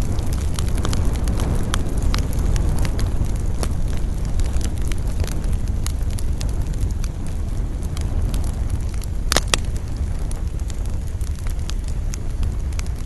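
Campfire crackling, with scattered sharp pops over a steady low rumble of wind. Two louder pops come close together about nine seconds in.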